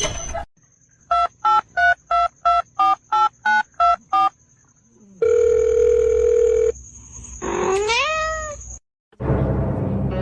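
A run of about ten short electronic beeps like a phone keypad, then a steady tone for about a second and a half, then a cat meowing once, its pitch rising and then falling back.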